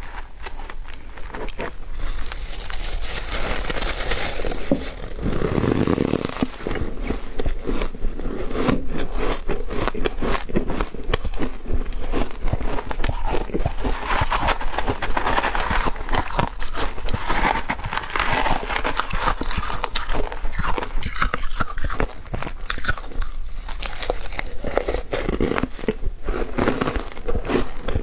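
A person biting and chewing ice in the mouth: a steady run of crisp crunches and crackles that goes on without a break.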